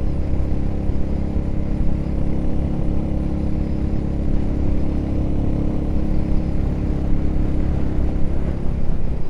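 Motorcycle engine running at a steady cruise, a held, unchanging tone over a constant low haze of road and wind noise on the bike-mounted camera.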